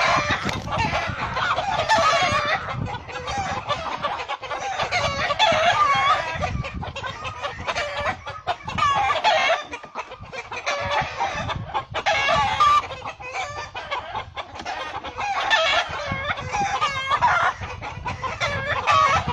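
Domestic chickens clucking and calling over and over, many short calls following close on one another.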